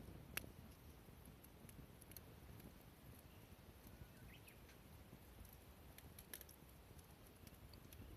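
Near silence with a small wood fire crackling faintly, a few sparse sharp snaps scattered over a low background hush.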